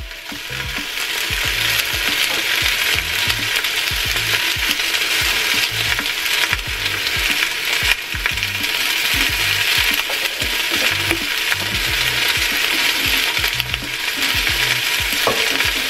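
Chicken legs sizzling in hot oil in a pot as they brown: a steady frying hiss with fine crackling.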